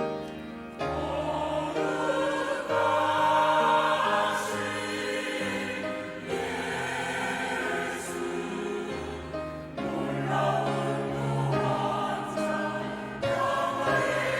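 Church choir singing a hymn in parts, with long held chords that change every second or two.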